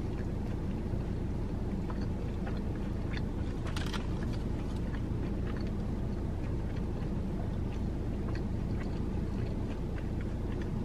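Steady low hum of a car cabin with the engine running, and over it faint, scattered mouth clicks of a person chewing a bite of a tortilla wrap.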